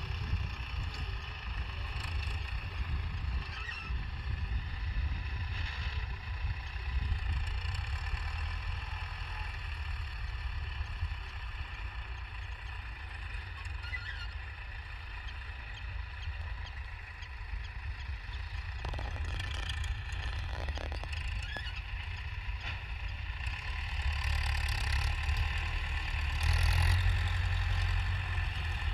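Belarus MTZ tractor's diesel engine running steadily, growing louder near the end.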